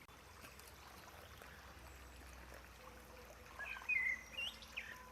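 Birds chirping: a quick cluster of short, gliding calls in the second half, over faint steady outdoor background noise.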